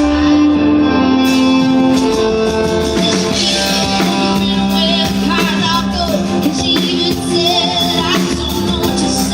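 Live amplified country music: a woman singing long, wavering notes over band backing.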